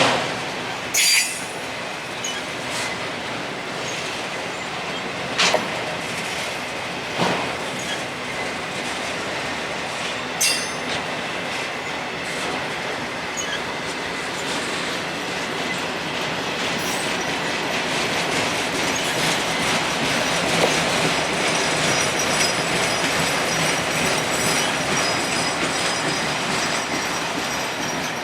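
Railroad cars rolling past with steady wheel-on-rail noise that grows louder in the second half, with a few short, sharp wheel squeaks and clanks in the first ten seconds.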